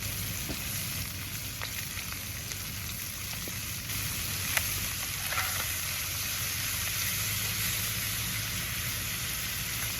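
Skin-on shark fillets frying in a cast iron pan: a steady sizzling hiss with a few scattered light pops, one sharper click about halfway through.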